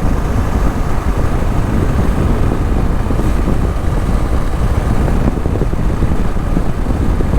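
Steady rush of wind and engine noise from a motorcycle being ridden at speed, heaviest in the low rumble and unbroken throughout.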